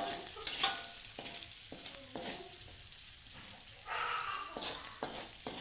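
Spice paste sizzling as it is stir-fried in hot oil in a pan, with the spatula scraping and knocking against the pan again and again.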